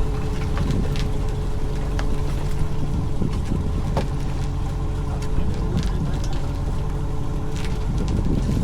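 Fishing boat's engine running steadily, a low even hum, with a few scattered clicks and knocks on board.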